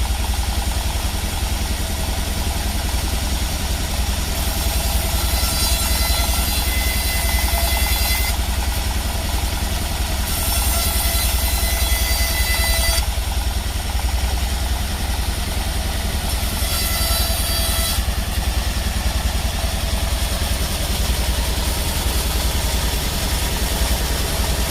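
Sawmill machinery running with a steady engine-like drone, while a higher hiss and whine come and go several times.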